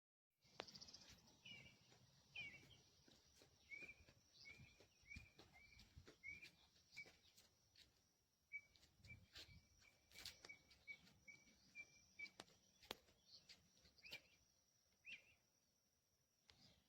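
Faint bird calls: a string of short chirps, then a quick run of rapid notes in the middle, with scattered light clicks.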